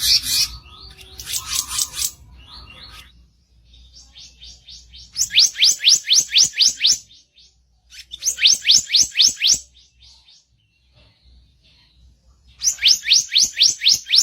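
Harsh call ('kicau kasar') of a kicap ranting bird: rough chattering notes at first, then three bursts of rapid rising whistled notes, about five a second, each burst lasting a second or two.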